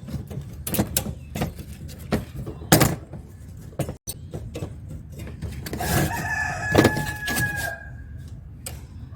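Repeated clicks and knocks of a screwdriver and loose metal parts as a microwave magnetron is taken apart, with a rooster crowing for about two seconds past the middle.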